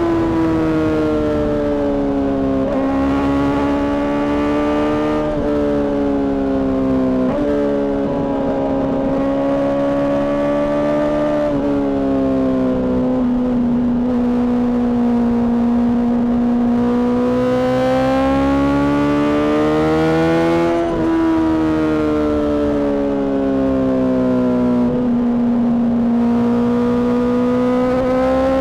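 Honda CBR600RR inline-four engine with a Mivv aftermarket exhaust, running under way. Its pitch rises and falls slowly as the revs change, with a few sudden steps in pitch.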